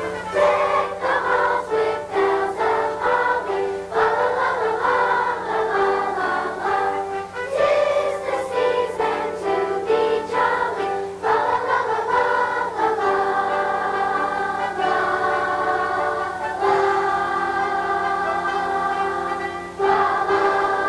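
Elementary school children's choir singing a song, moving note to note in the first half and holding long notes in the second half.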